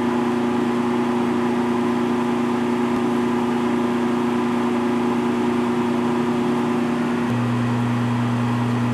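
Steady electrical hum from an appliance, a low drone made of a few steady tones. About seven seconds in its tone changes: a higher part drops out and a deeper one grows louder.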